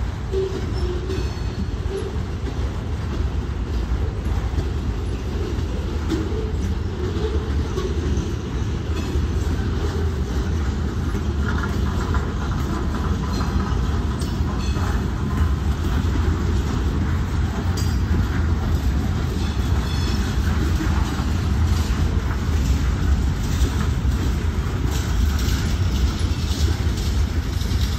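Freight train rolling past: a steady heavy rumble, with wheels clicking over rail joints throughout.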